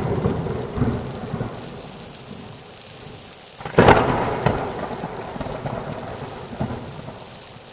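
Thunderstorm: steady rain falling, with a rumble of thunder fading at the start and a sharp thunderclap about four seconds in that rumbles away.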